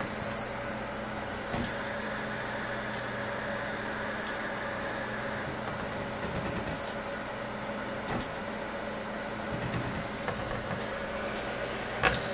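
Homemade CNC router built from salvaged printer parts running a test, its motors giving a steady hum and whine as the axes move. A higher whine drops out about five seconds in; light clicks come now and then, with a sharper click near the end.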